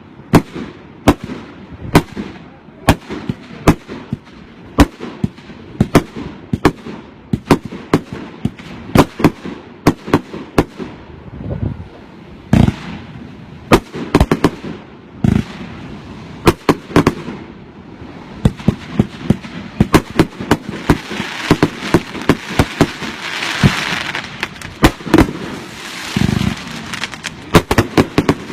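Fireworks going off in quick succession: a string of sharp bangs, roughly one or two a second, with a hissing crackle building up over the second half.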